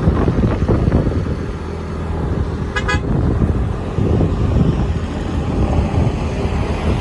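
Motorbike riding noise, a heavy low rumble of wind on the microphone and the road, with one short horn toot about three seconds in.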